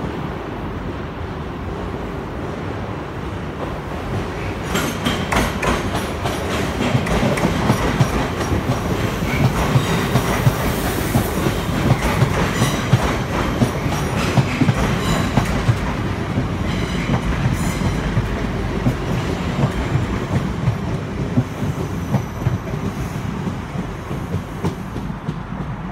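Two coupled ScotRail Class 334 Juniper electric multiple units running through the station, their wheels clicking rhythmically over the rail joints. The clicking grows louder from about four seconds in and eases off over the last few seconds as the train moves away.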